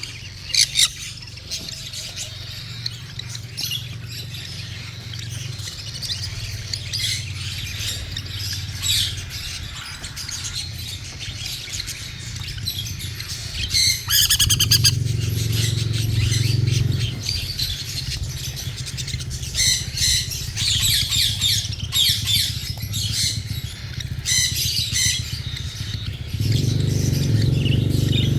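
Cockatiel begging calls during hand feeding: repeated chirps and squawks, with a fast pulsed run about halfway through. A steady low hum runs underneath and swells louder briefly around the middle and again near the end.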